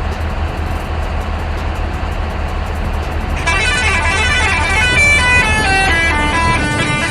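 Steady low engine rumble from a truck, joined about three and a half seconds in by a loud melody of quick stepping notes.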